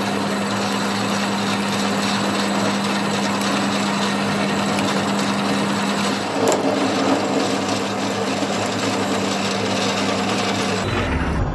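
A workshop machine running steadily, a constant hum under an even hiss, changing abruptly to a different, lower machine sound about eleven seconds in.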